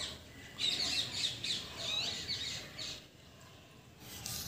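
Birds chirping and chattering in a quick run of short, high, sweeping calls for about two seconds, then dying away.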